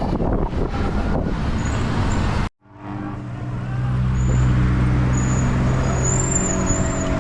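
Steady rushing noise, then after an abrupt cut a motor vehicle engine running with a steady low hum.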